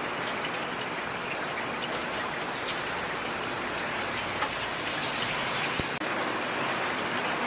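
Steady rain falling, with individual drops clicking sharply here and there. The sound cuts out for an instant about six seconds in.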